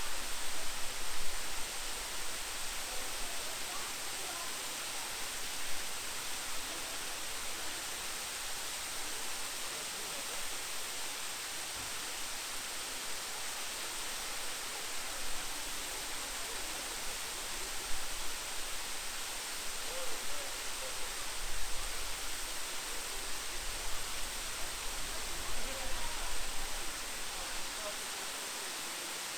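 The Great Waterfall in Sofiyivka Park, with falling water making a steady, even rush. Low wind rumble on the microphone comes and goes.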